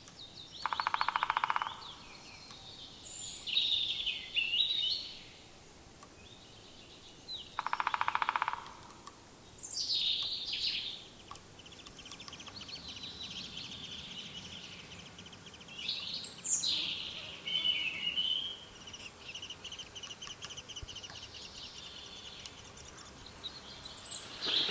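Several forest birds singing and calling, with two loud, rapid rattles of about a second each: one near the start and one about eight seconds in.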